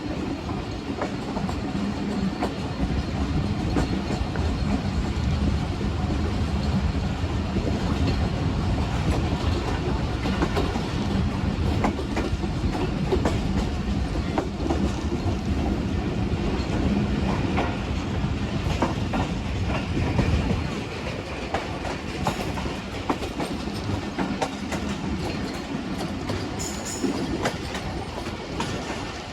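A train running along the track: a steady rumble with the clickety-clack of wheels over the rails. It grows a little quieter about two-thirds of the way through.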